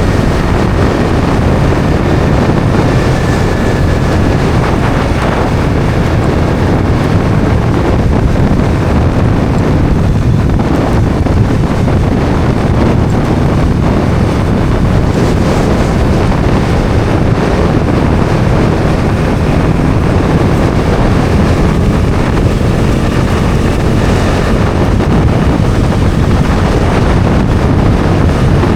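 Bajaj Dominar 400's single-cylinder engine running at a steady cruising speed, largely covered by wind rushing over the microphone while riding.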